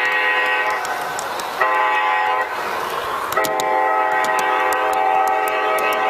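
Sound-equipped garden-scale model locomotive sounding its horn through its speaker. A blast ends about a second in, a short blast follows, then a long blast that runs on. Light sharp ticks sound throughout.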